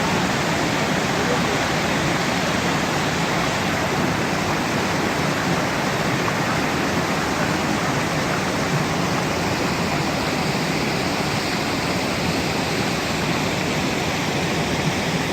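A waterfall rushing steadily, a loud, unbroken roar of falling water.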